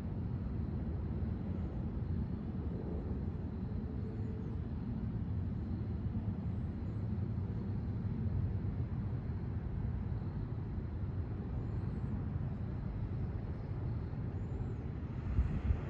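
Steady low rumble of a Long Island Rail Road train hauled by DM30AC diesel locomotives, with a brief thump near the end.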